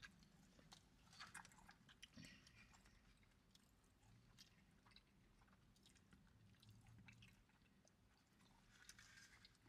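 Near silence with faint chewing and small mouth clicks from people eating a burger and fries.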